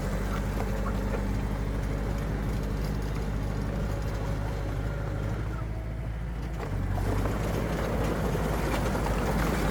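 Heavy diesel engine of earthmoving machinery running steadily, then growing louder and rougher about seven seconds in.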